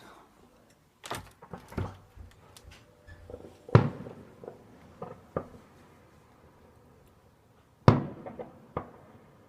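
Distant fireworks going off: a series of sharp bangs and pops that echo briefly, the loudest about four and eight seconds in.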